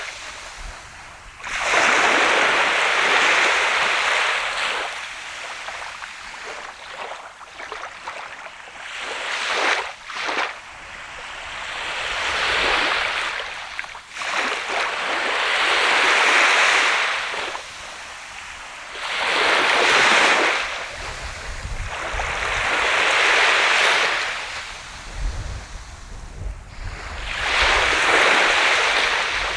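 Waves breaking and washing up a sand beach on the Sea of Japan, one after another about every four seconds, each surge of surf swelling and then fading.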